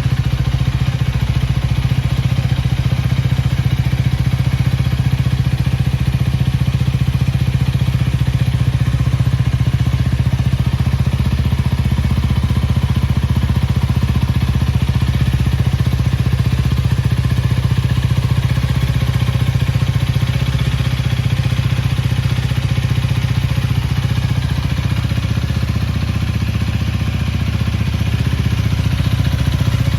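Honda Rebel 250's single-cylinder engine idling steadily.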